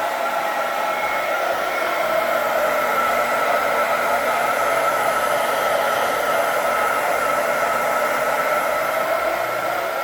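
Handheld hair dryer running steadily on a high setting: an even rush of air with a steady motor and fan whine over it.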